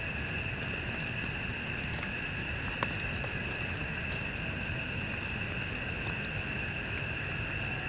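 Steady outdoor ambience: a constant high-pitched drone over a low, even hiss, with a single sharp click about three seconds in.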